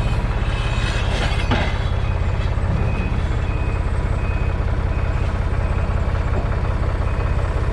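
A heavy vehicle engine idling steadily, with a fast, even low pulse.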